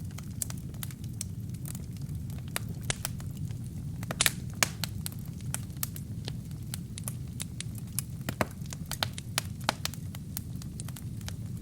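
Wood fire burning in a fireplace: a steady low rumble of flames with frequent sharp, irregular crackles and pops from the burning wood and kindling, a few louder pops about four seconds in.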